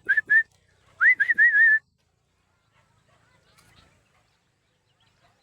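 A person whistling short, rising notes in two quick runs, the second starting about a second in and trailing off before the two-second mark.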